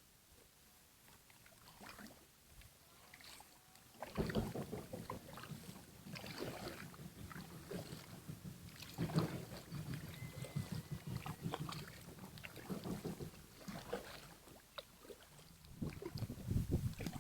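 Kayak on a river: water splashes and knocks against the boat, with wind rumbling on the microphone. Quiet for about the first four seconds, then louder and uneven.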